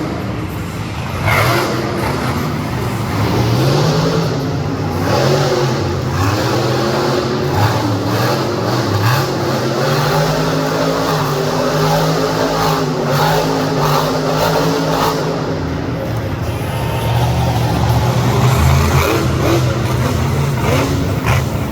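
Monster truck engine revving loudly, its pitch rising and falling as the truck is driven hard.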